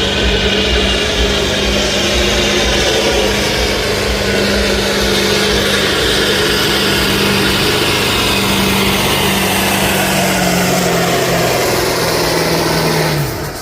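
Pulling truck's engine running hard at full throttle as it drags the weight-transfer sled. Its pitch slowly sags as the sled loads it down, then the sound drops off sharply near the end as the pull finishes and the throttle comes off.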